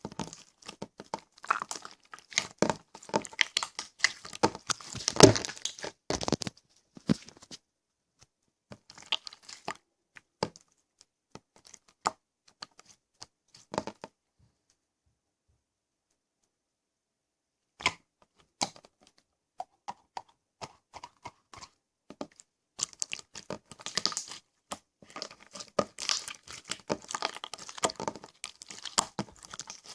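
Slime being squeezed and stretched by hand, giving irregular sticky crackles and pops. It breaks off into silence for a few seconds around the middle, then starts again.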